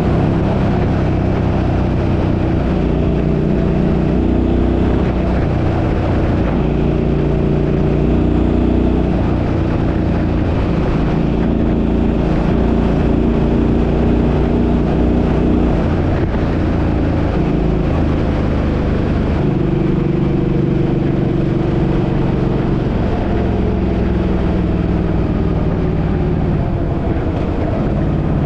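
Suzuki's engine running while driving, with road noise. Its pitch shifts to a new level every few seconds as the speed changes.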